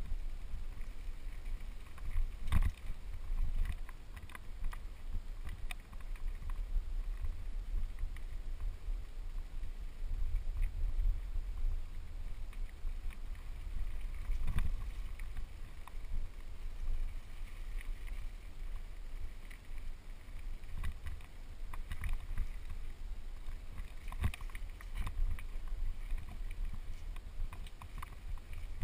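Mountain bike descending a dirt trail: steady wind rumble on the microphone, with the bike knocking and rattling over bumps, the sharpest knocks about 2.5 s and 14.5 s in.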